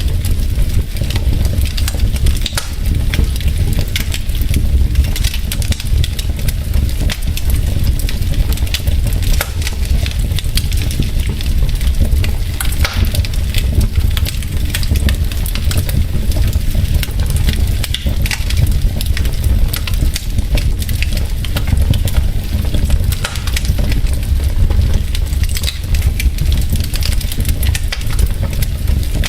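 Wood fire burning in a fireplace: logs crackling with many small pops over a steady low rumble of the flames.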